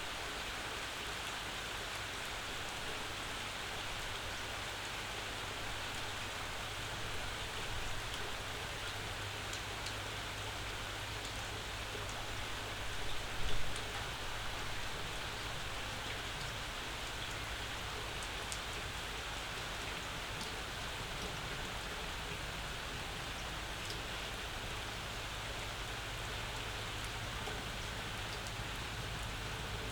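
Steady summer rain falling, with scattered individual drips. About halfway through there is a brief louder swell.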